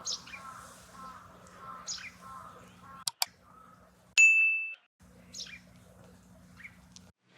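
A single bright ding rings for about half a second, four seconds in. It is the loudest sound, set over faint, repeated bird chirps and short falling whistles. Two sharp clicks come just before it.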